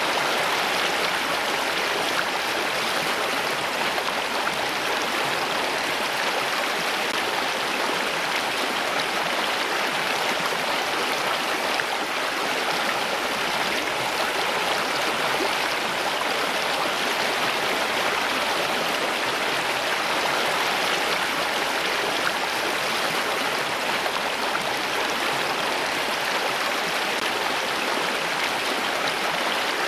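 Steady, unbroken rush of running water, even in level throughout.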